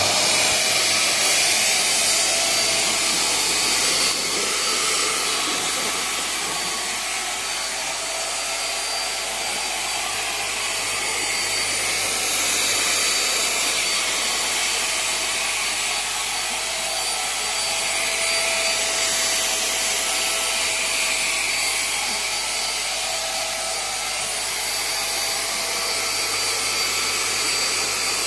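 Small handheld vacuum cleaner running steadily: its motor's whirr and high whine over the rush of suction air, the tone wavering slightly as it is worked.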